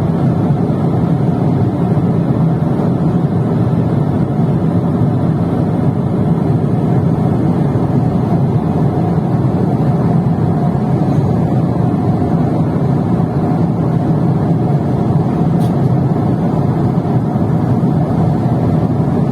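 Steady cabin noise of a jet airliner in flight: an even, unbroken rush of engine and airflow noise heard from inside the cabin.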